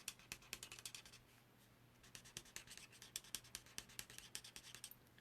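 Faint, quick scratchy strokes of an alcohol-ink blending marker's tip on cardstock, several a second, pausing for about a second near the start.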